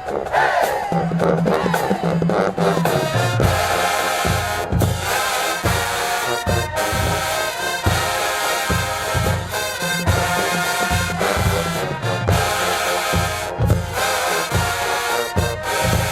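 HBCU marching band playing, brass section carrying the tune; about three seconds in, a steady pounding bass-drum beat comes in at roughly two hits a second.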